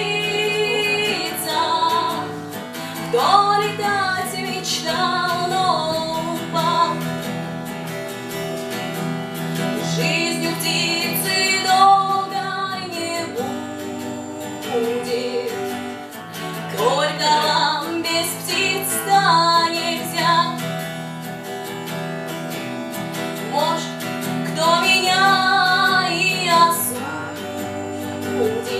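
A song: a woman's voice sings in long, bending phrases over acoustic guitar accompaniment with a sustained bass.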